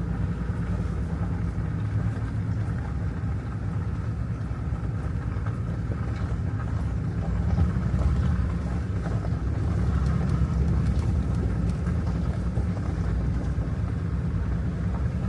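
Diesel engine of heavy construction equipment running steadily with a constant low rumble.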